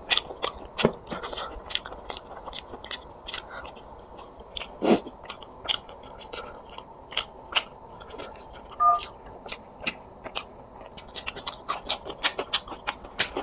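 A person chewing and biting food close to the microphone: irregular wet clicking mouth sounds, several a second, with a few louder crunches.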